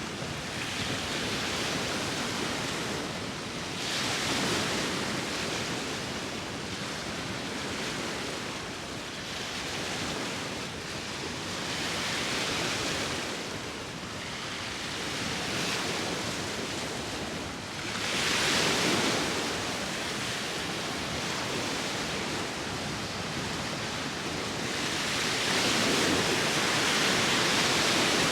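Sea waves washing in on the shore with wind, a continuous rush that swells as each wave breaks, several times over: near 4 s, 12 s, 19 s and a longer surge near the end.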